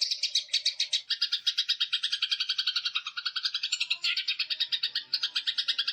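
Songbird singing a fast, unbroken chattering trill of about ten notes a second, from a recording used to tutor caged birds. The trill drops lower in pitch about a second in.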